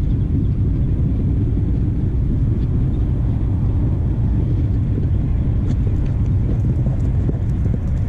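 Steady low wind rumble buffeting the microphone of a camera carried on a horse and rider galloping cross-country.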